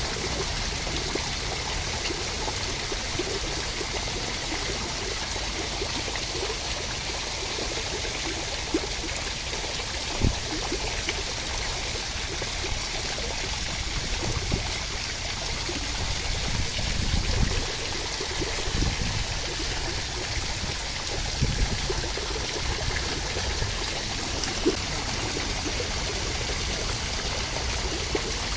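Steady rain, an even rushing hiss of water, with a few brief low thuds scattered through the middle.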